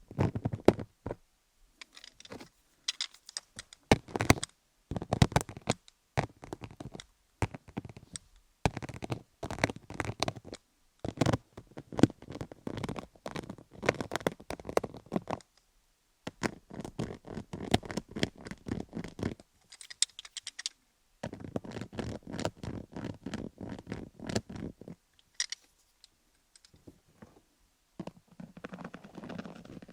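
Microneedle (MTS) roller rolled over a rhinestone-studded dummy-head microphone: a dense clatter of tiny rapid clicks in strokes of a second or several, broken by short pauses.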